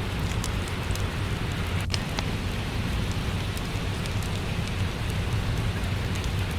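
Steady rain with a wood fire crackling, sharp scattered pops over an even rushing hiss.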